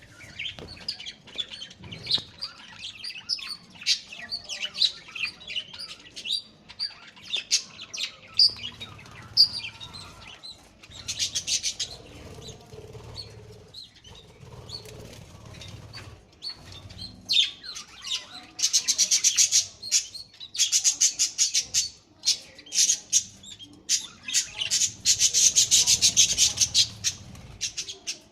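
Parrots chirping and chattering with short high calls, then several long bursts of rapid, buzzing chatter in the second half, louder than the chirps.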